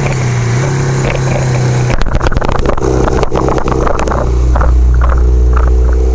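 1975 Kawasaki KZ400's parallel-twin engine running as the motorcycle rides a winding road with dips. About two seconds in, its steady note gives way to a quick run of rattling knocks for a couple of seconds, then a deep low rumble builds.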